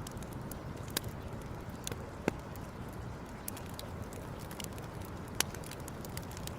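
Wood campfire crackling, with scattered small snaps and three sharper pops, over a steady low rush.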